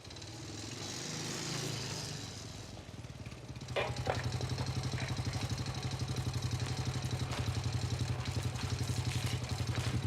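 Motorcycle engine running low and quietly at first. About four seconds in it becomes louder, with a steady rapid putter that carries on.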